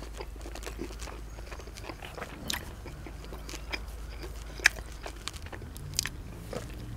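A person chewing a mouthful of bacon cheeseburger: soft wet crackles and clicks from the mouth, with one sharper click about two-thirds of the way through, over a steady low hum.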